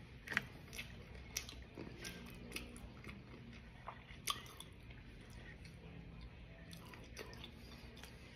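Close-up chewing and biting of crunchy dried fish, with scattered crisp crunches and mouth clicks; the sharpest come about half a second in and about four seconds in.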